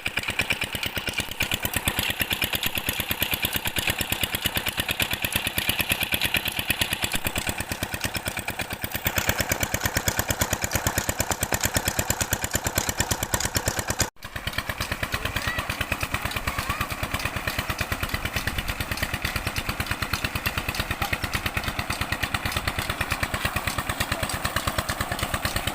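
Diesel engine driving a tube well water pump, running steadily with a fast, even beat. The sound drops out for a moment about fourteen seconds in, then carries on unchanged.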